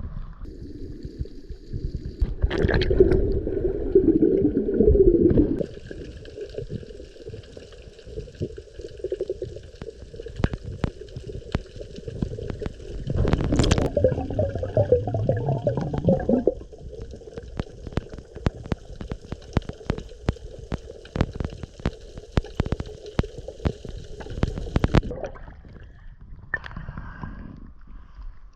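Water gurgling, with many small sharp clicks and a faint steady hum beneath; the gurgling swells louder twice, near the start and about halfway.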